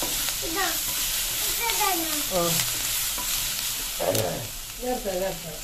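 Chopped onion, tomato and chillies sizzling in oil in a non-stick frying pan, stirred with a wooden spatula, with a single knock about four seconds in.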